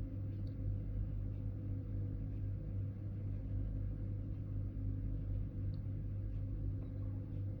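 A steady low hum with faint steady tones above it, unchanging throughout.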